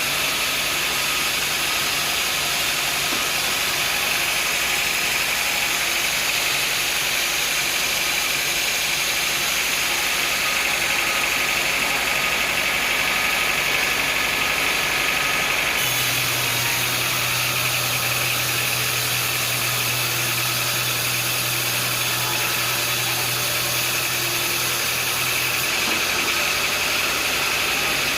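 Sawmill machinery running steadily, a constant mechanical drone with a high whine over it. A low hum comes in suddenly about halfway through and cuts out near the end.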